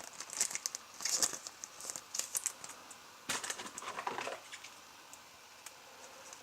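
Crinkling and rustling of trading cards and plastic wrappers or sleeves being handled, with light clicks, over the first four seconds or so before it goes quieter.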